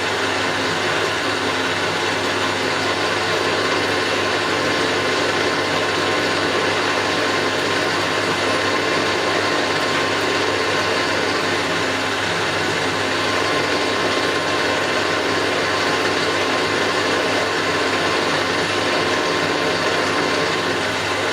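Milling machine running steadily, a continuous machine hum with a few steady tones and no change in pace.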